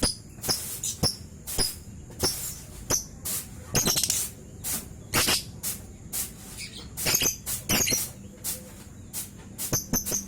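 Lovebird singing: a quick, irregular string of sharp chirps and squeaky chatter, with a few longer trilling runs, the 'ngekek' song.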